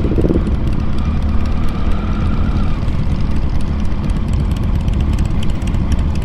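Triumph Tiger motorcycle's three-cylinder engine running steadily while riding.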